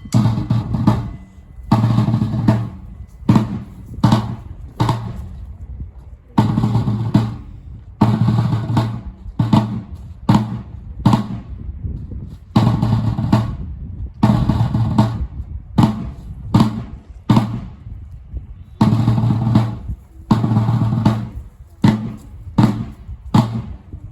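Drums beating a ceremonial cadence: heavy bass-drum strokes with snare, in repeated rhythmic phrases.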